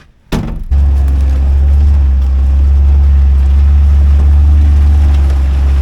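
A vehicle running: a loud, steady low rumble that starts abruptly after a click about half a second in.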